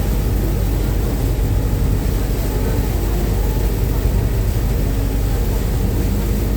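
Uber Boat river bus underway at speed, heard from its open deck: a steady, loud engine rumble mixed with rushing wind and water noise.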